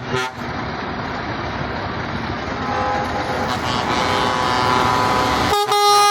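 Steady vehicle noise with a faint horn tone from about three seconds in. Then, about five and a half seconds in, a truck air horn sounds loudly, several pitches together as one chord.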